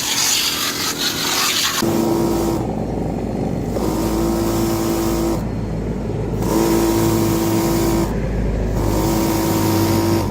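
12-volt 100 PSI diaphragm washer pump (type NA 2203-1) spraying water. After a stretch of plain spray hiss, the pump's steady whine and the hiss start and stop together four times, a second or so each, over a continuous low hum.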